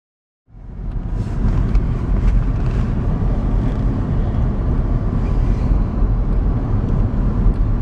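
Car driving on a snow-covered road: a steady low rumble of tyres and engine with a fainter hiss above it. It starts suddenly about half a second in.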